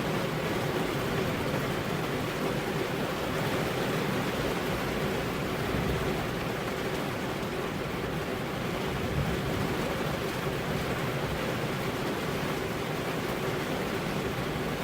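Steady rain falling on a car's window glass: an even, unbroken patter with no single drops or thunder standing out.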